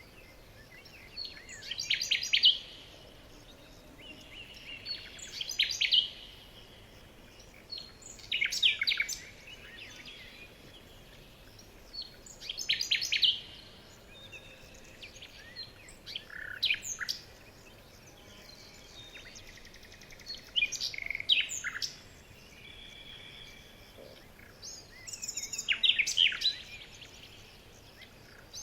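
A small bird singing short bursts of high chirps and trills, about seven phrases repeated every few seconds.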